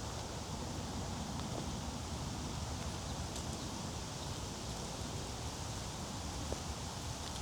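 Footsteps along a wet woodland trail with rustling of leaves and undergrowth, over a steady low rumble.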